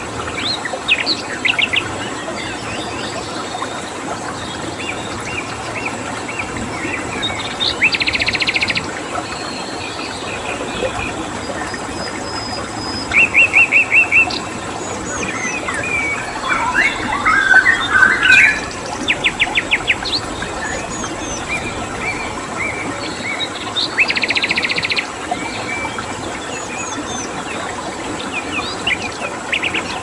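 Several songbirds chirping and singing in short phrases and rapid trills over a steady hiss of flowing water. The loudest trills come about 8, 13, 17, 19 and 24 seconds in.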